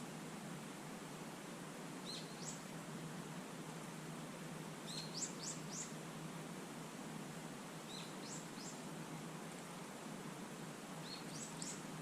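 A small wild songbird calling in short groups of two to four quick, high, rising notes, about every three seconds, over a steady background hiss.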